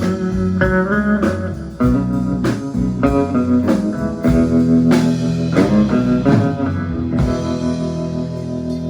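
Live band playing an instrumental passage of a blues-rock song: guitar lines over a drum kit and bass, with no singing.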